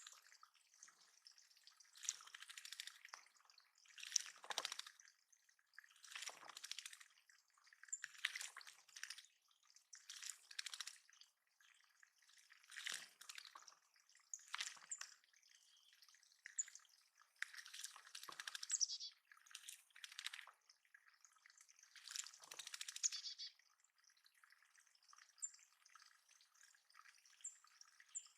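Water dripping and splashing in a backyard bird pond, coming in pulses about every two seconds.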